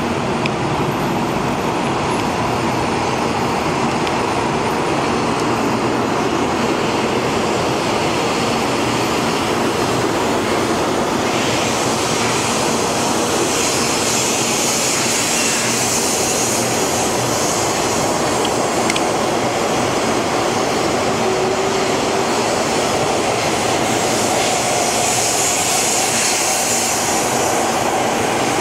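High-speed electric train moving past along a station platform, a steady rush of wheels and air. A high hiss swells twice as the carriages go by.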